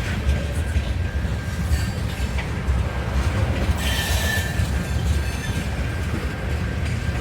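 Train rolling past with a steady heavy low rumble of its wheels on the rails, and a brief high wheel squeal about four seconds in.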